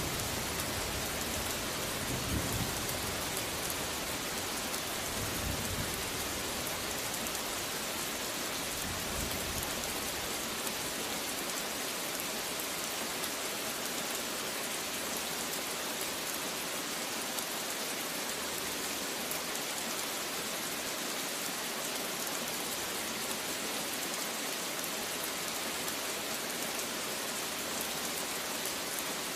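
Steady heavy rain falling, with a low thunder rumble during the first several seconds that dies away, leaving only the rain.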